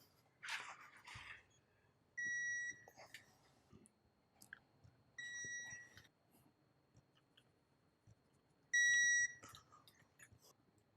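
Three short electronic beeps, each one high tone lasting about half a second, about three seconds apart. Light clicks and a brief rustle of handling come between them.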